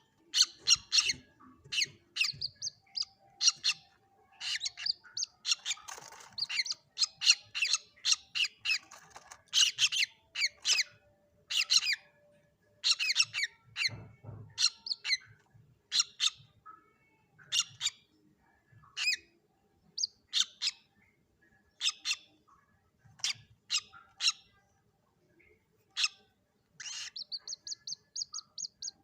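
Common moorhen chicks calling: a steady stream of short, sharp, high squeaky calls, several a second, with a quick run of even-pitched peeps near the end.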